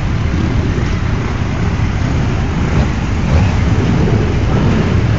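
A steady low rumble of motorcycle engines running, with no single machine standing out.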